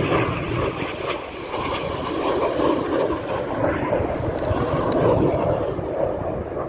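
Steady jet noise from a formation of BAE Hawk T1 display jets, each powered by a single Adour turbofan, flying past in an airshow display.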